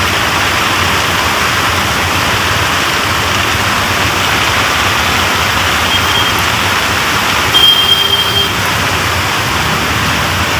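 Heavy rain pouring down in a steady, even hiss. A short high-pitched tone sounds about six seconds in, and a louder one about two seconds later.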